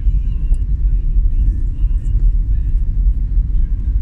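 Steady low rumble of a moving vehicle travelling on a city road.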